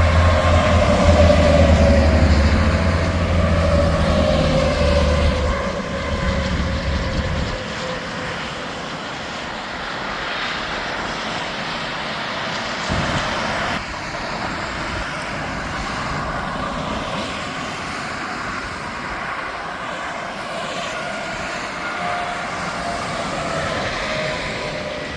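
Highway traffic with semi trucks going by: a close pass with a deep engine rumble and a tyre whine that falls in pitch during the first seven seconds or so, then steady traffic noise as more vehicles pass.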